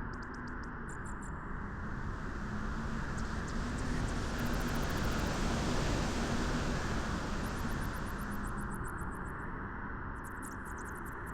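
Beach wind blowing steadily as a rushing hiss, swelling into a stronger, brighter gust in the middle and easing off again.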